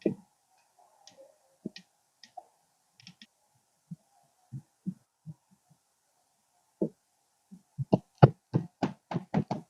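Scattered light knocks and clicks, then a quick run of sharper, louder knocks about five a second near the end.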